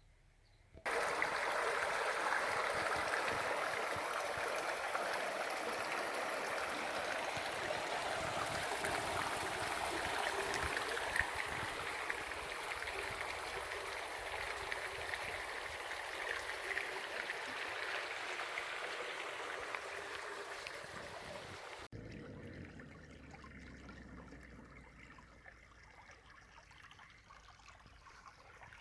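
Running stream water, a steady rushing hiss that starts abruptly about a second in; about 22 seconds in it cuts to a quieter flow of water.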